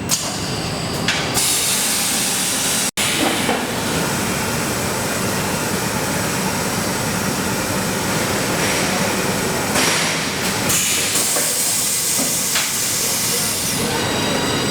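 Motor production machinery running on a factory floor: a steady, loud mechanical hiss and clatter, broken by a sudden brief gap about three seconds in.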